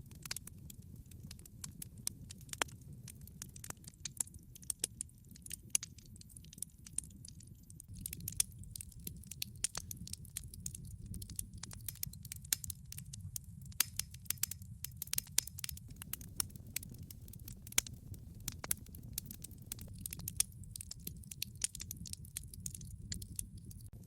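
Log fire burning in a fireplace: dense, irregular crackles and pops of the burning wood over a steady low rumble of the flames.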